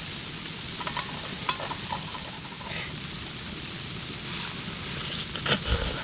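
Steady hiss of a camp stove heating a pot of simmering noodle soup. There are a few light utensil clicks about a second in and a louder knock near the end.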